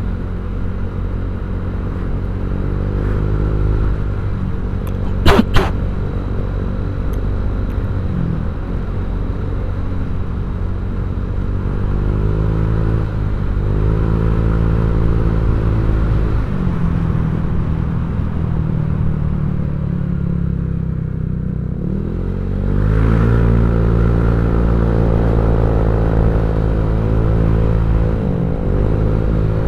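Honda Vario 150 scooter's single-cylinder four-stroke engine running through a ZRC 'Copy CMS' aftermarket exhaust, its pitch rising and falling several times as the throttle is opened and eased off. Two sharp knocks come about five seconds in.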